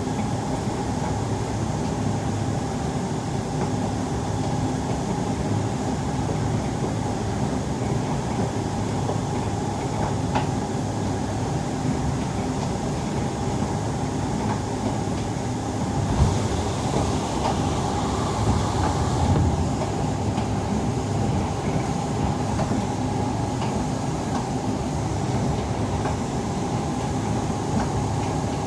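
Siemens C651 metro train running, heard from inside the carriage: a steady rumble of wheels on rail with a steady hum. About sixteen seconds in there is a single knock, followed by a few seconds of louder hiss.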